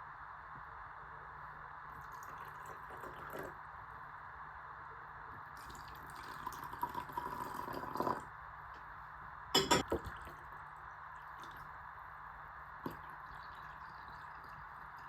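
Liquid being poured into a vessel in a small room for a couple of seconds, then a sharp knock a little later and a faint click near the end.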